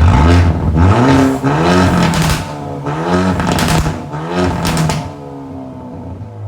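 Hyundai Elantra N's turbocharged four-cylinder engine blipped repeatedly through its exhaust, about six quick revs rising and falling roughly a second apart, with sharp cracks between some of them. It settles lower after about five seconds.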